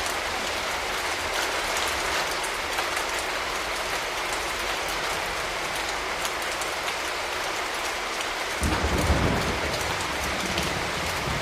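Steady rain falling, with many single drops ticking through the hiss. About three-quarters of the way in, a low rumble comes in suddenly and eases again after a second or so.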